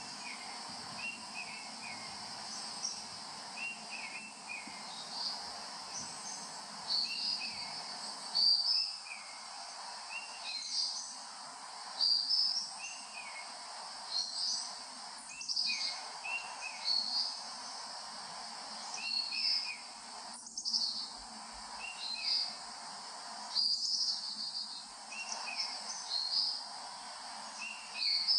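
Wild birds chirping in short, repeated calls every second or two, over a steady high insect drone.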